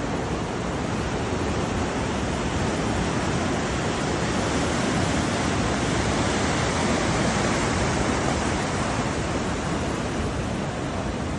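Ocean surf washing continuously. It swells slowly to its loudest in the middle and eases off near the end.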